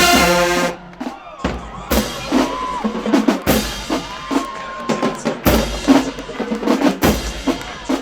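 Marching band brass holds a loud chord that cuts off about a second in, then the drumline plays a cadence of snare and bass drums.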